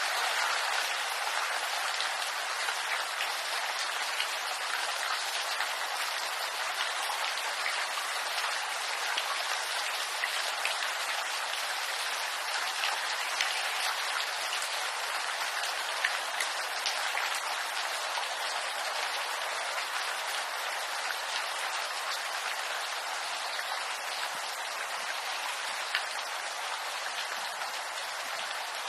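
Steady rain falling on bamboo leaves: a dense patter of drops with a few louder single drops now and then.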